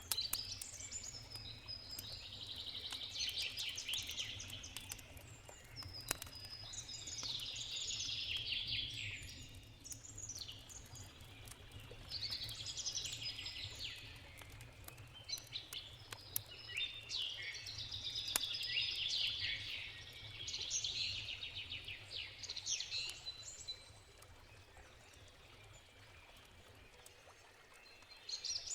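A songbird singing a string of rapid twittering phrases, each a couple of seconds long and repeated every few seconds, over a low steady river rush, with the occasional sharp pop of a crackling campfire. The singing stops for a few seconds near the end, then starts again.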